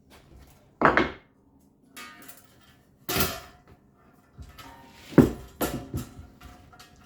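A few sharp knocks and clatters of hard objects being handled and set down, the loudest about a second in and about five seconds in, with lighter rattles between.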